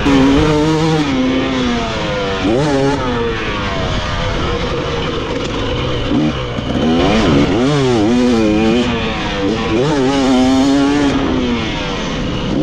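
Dirt bike engine being ridden hard, its pitch repeatedly climbing under throttle and falling back as the rider shifts or rolls off.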